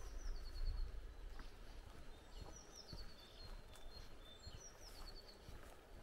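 A songbird sings the same short phrase three times, a quick run of high notes falling into a string of repeated notes, over a low rumble with soft footsteps on a path.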